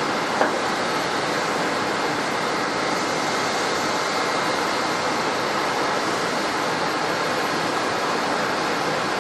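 Steady, even noise from an airliner's jet engines, with one short click about half a second in.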